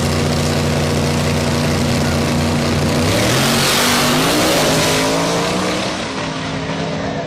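A high-horsepower drag car's engine runs steadily, then revs up about three seconds in. Its pitch climbs over a couple of seconds under a loud rush of noise, then it eases back and settles.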